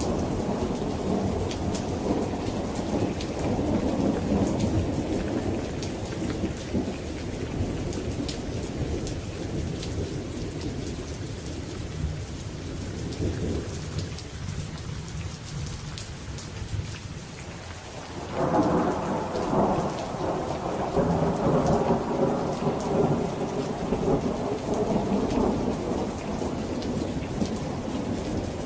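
Thunderstorm: steady rain with rolling thunder that dies away through the middle, then a fresh thunderclap rumbling in about eighteen seconds in.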